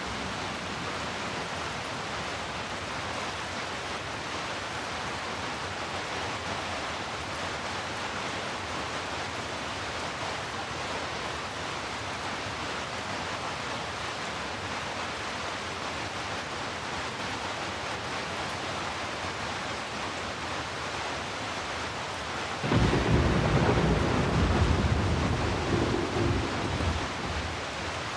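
Steady heavy rain. Near the end a low roll of thunder comes in suddenly, rumbles for about five seconds and fades.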